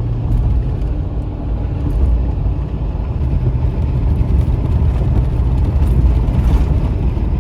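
Loud, steady low rumble of a motor vehicle.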